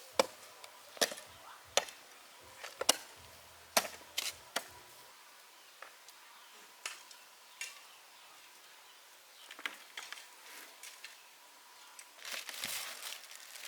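Chopping wood with a blade: sharp strikes about once a second for the first five seconds, then a few sparser knocks, with a rustling noise near the end.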